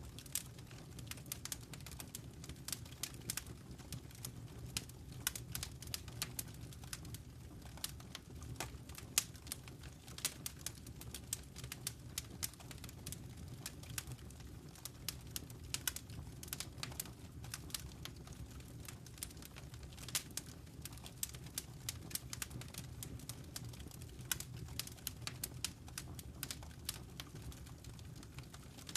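Wood fire crackling in a fireplace: a constant run of irregular sharp pops and snaps, several a second, over a low steady rumble of the flames.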